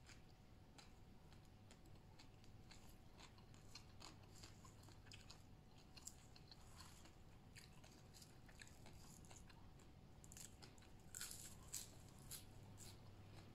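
Faint chewing and crisp crunching of raw vegetables and green papaya salad, a run of short crunches that grows thickest near the end.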